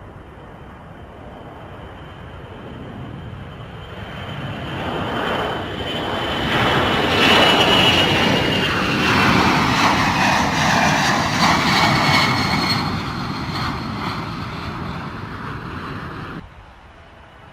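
Large military transport aircraft's engines growing louder as it passes, peaking in the middle, with a high whine that falls in pitch as it goes by, then easing off. The sound cuts off suddenly near the end.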